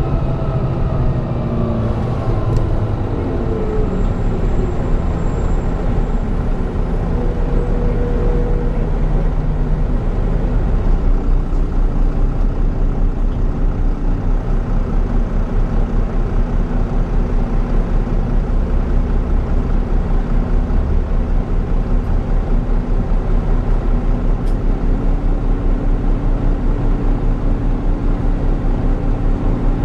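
Volvo B9B-310 six-cylinder diesel engine of a Volvo B9TL bus with a ZF Ecomat gearbox. A whine falls in pitch over the first few seconds as the bus slows, then the engine settles into steady low running with an even pulse.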